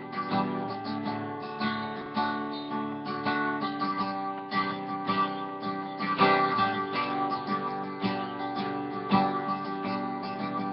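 Acoustic guitar strummed steadily, an instrumental passage between sung lines of a worship song.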